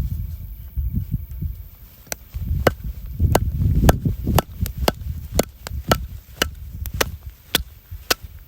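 Firewood being chopped and split: a run of sharp knocks, about two a second, over low thudding and handling noise.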